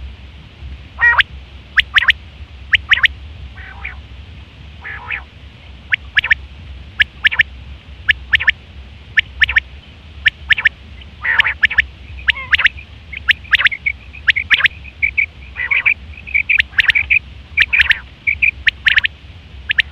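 Quail calling: short, sharp high notes repeated over and over, often in quick pairs or threes, coming thicker and faster in the second half. This is the call that hunters use as a lure.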